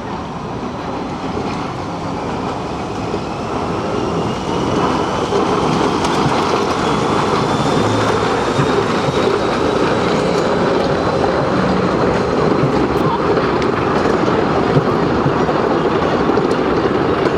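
Train running on the track, growing louder over the first five seconds or so and then holding steady, with a faint high whine that slowly rises in pitch.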